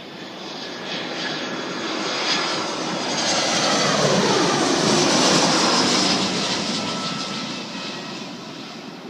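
Fixed-wing aircraft passing close by. Its engine noise builds to a peak about four to six seconds in, drops in pitch as it goes past, then fades away.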